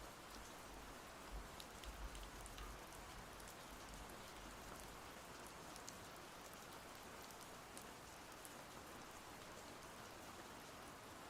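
Steady rain falling, with individual drops landing as sharp clicks over an even hiss. A faint low rumble sounds in the first few seconds.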